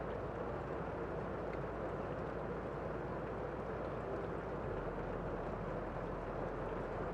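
Steady rain falling, an even, dull rush with a few faint drop ticks.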